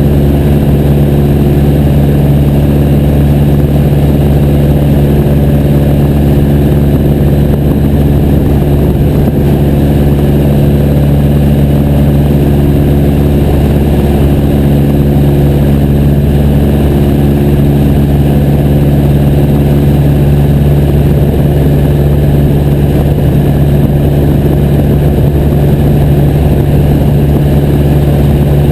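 Piper J3 Cub's engine and propeller running steadily at a constant pitch, a loud, unchanging drone.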